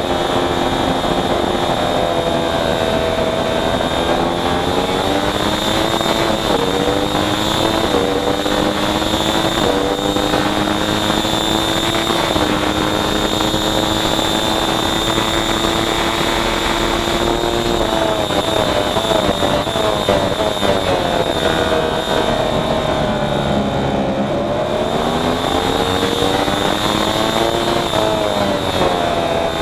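Racing motorcycle engine at full race pace, heard onboard: the revs climb in steps through upshifts, hold high and steady for several seconds, then drop with downshifts under braking about two-thirds of the way through and climb through the gears again near the end. A steady high-pitched whine sits over it throughout.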